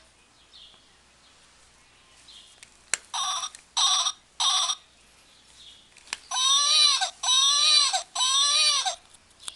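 1980s sound doll's built-in voice playing its sounds. A click is followed by three short bursts, then another click and three longer wails like a baby crying, each rising and then falling in pitch.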